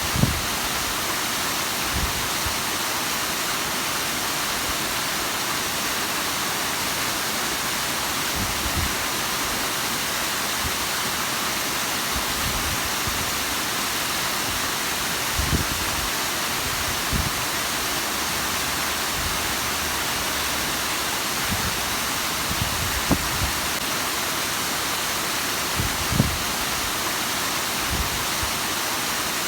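Steady, even rush of the Bigăr waterfall's falling water, with a few brief low thumps scattered through it.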